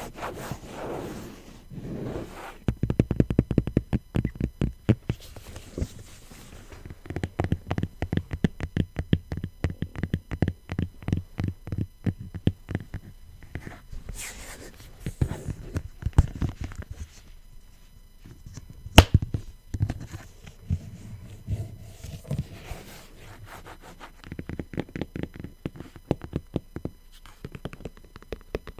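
Fingers tapping rapidly on faux leather, in quick runs of soft, low taps broken by short pauses, with one sharper click about two-thirds of the way through.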